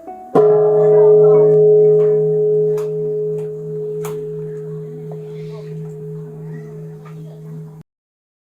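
A single struck bell ringing out, a long slowly fading tone that cuts off suddenly near the end.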